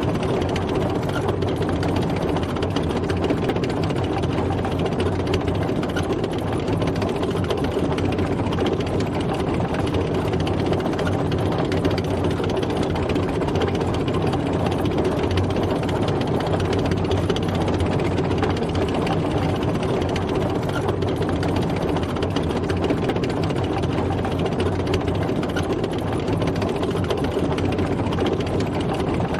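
Tank driving, its heavy engine running steadily with no change in pace.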